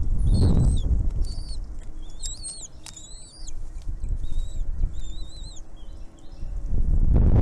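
Small birds chirping: many short, high chirps in quick succession, densest in the middle. A loud low rumble, like wind or handling noise on the microphone, sits under the start and comes back near the end.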